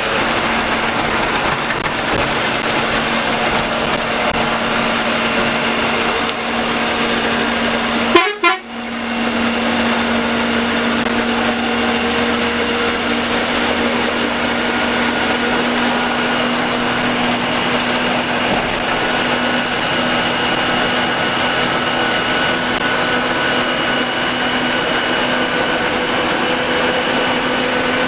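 AC sleeper coach driving at speed, heard from the driver's cabin: steady engine and road noise with a constant pitched drone. It breaks off sharply for a moment about eight seconds in, then carries on.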